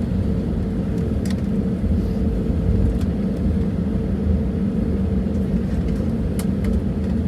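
Airliner cabin noise of an Airbus A320neo taxiing: a steady low rumble from its idling CFM LEAP-1A engines and rolling gear, with a constant hum under it and a few faint clicks.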